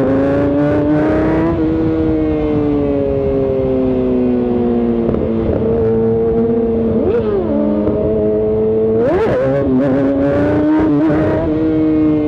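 Inline-four supersport motorcycle engine running under way with wind rushing past. The engine note slowly drops as it rolls along, and it is blipped up and back down quickly about 7 s in and again about 9 s in.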